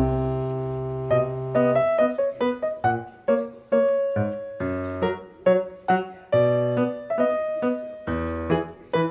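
Background piano music: a melody of single struck notes, each dying away, over low held bass notes.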